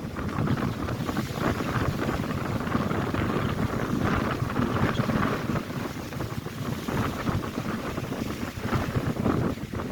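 Strong wind buffeting the microphone over the crashing waves of Lake Erie, a continuous rush that swells and eases in surges every few seconds.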